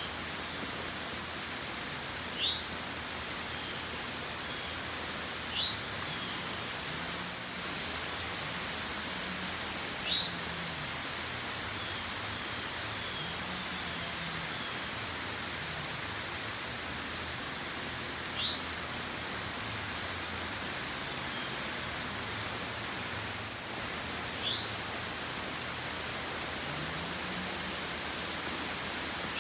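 Steady rain falling, an even hiss without thunder. A brief rising chirp recurs every few seconds over it.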